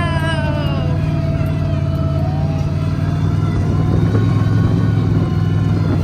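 Monster truck engine running with a steady low drone, and a high falling whine that fades out in the first second.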